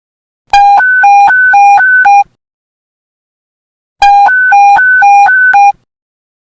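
Police panic button alert tone: two loud bursts of electronic beeps alternating quickly between a low and a high pitch, each lasting about a second and a half, about three and a half seconds apart.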